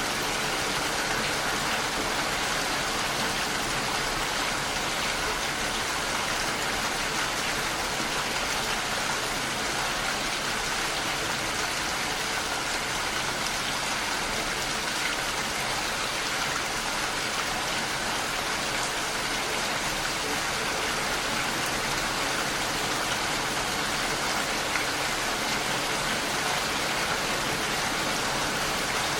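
Heavy rain falling in a steady, even wash with no let-up.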